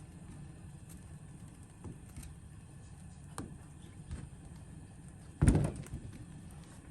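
Cookware being handled: a few light clicks and knocks, with one loud knock about five and a half seconds in.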